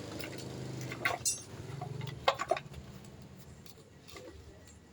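A motorcycle engine running low and dying away, with a few sharp metallic knocks and clinks about one second and two and a half seconds in.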